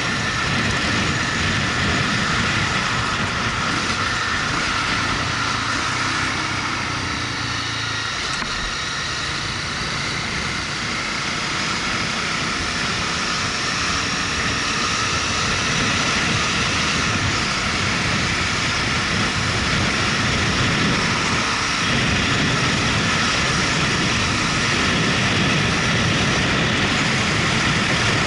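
Motorcycle riding at a steady pace: the engine runs continuously under a rushing haze of wind and road noise, with no sudden events.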